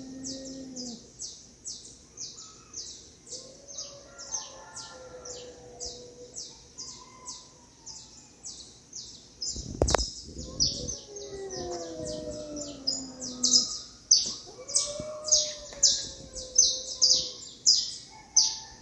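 Cats yowling at each other in a fight: long, low, wavering wails that slide down in pitch, coming and going. Behind them a high chirp repeats steadily two to three times a second, and there is one sharp knock about ten seconds in.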